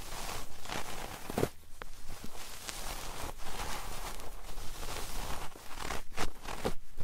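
Close-up ASMR trigger sounds on a 3Dio binaural microphone: irregular rustling and scratching with a few sharp clicks.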